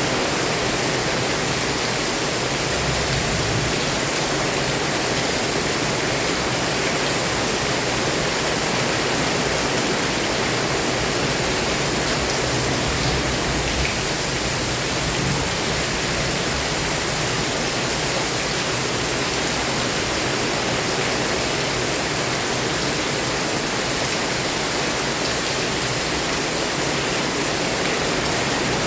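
Heavy rain pouring down steadily in a storm, a dense, even hiss that does not let up.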